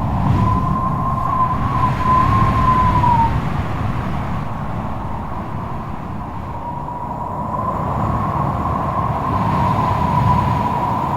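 Strong wind blowing hard: a steady low rumble with a wavering whistle over it that fades out about three seconds in and comes back around six seconds.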